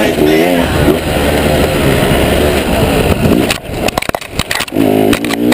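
KTM 300 XC-W's single-cylinder two-stroke engine revving up and down as the bike is ridden. From about three and a half seconds in, for about a second, the engine drops back behind a quick run of clicks and brushing as tall grass sweeps over the boot-mounted camera.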